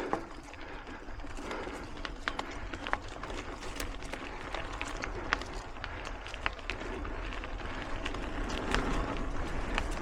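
Mountain bike being ridden on a dirt singletrack trail: tyres rolling with frequent sharp clicks and rattles from the bike over a steady low rumble.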